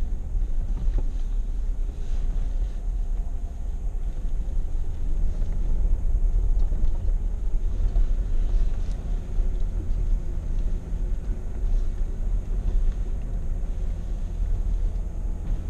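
A vehicle driving slowly over a rough dirt road, heard from inside the cabin: a steady low rumble of engine and tyres, with small knocks and rattles from the bumps.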